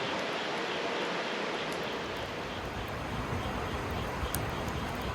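Steady rushing of river water. About two seconds in a low rumble joins it, and a few faint ticks come near the end.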